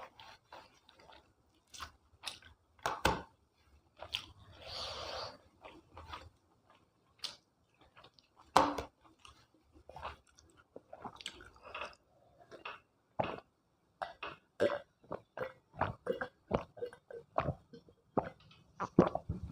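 A person chewing food close to the microphone: irregular wet mouth clicks and smacks, settling after the middle into a steady chewing rhythm of about three chews a second.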